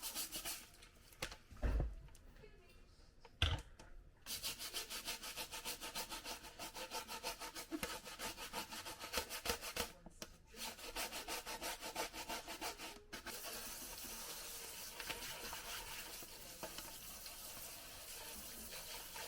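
Quick, rhythmic scrubbing strokes on the dishwasher's removed filter and small parts, with a couple of knocks about two and three and a half seconds in. From about thirteen seconds the strokes merge into a steadier rubbing.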